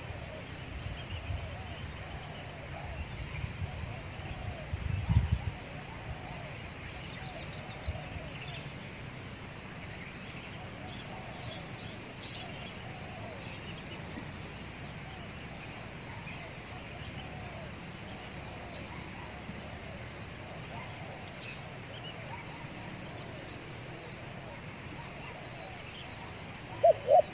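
Steady high-pitched insect trill, like crickets, with faint scattered bird calls and a few low thumps about five seconds in. Right at the end a spotted dove starts cooing loudly.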